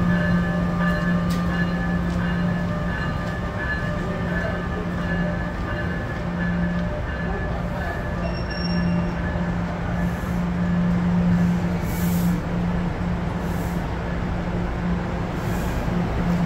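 Electric train at the station, a steady low hum with fainter higher whine tones above it, holding at an even level.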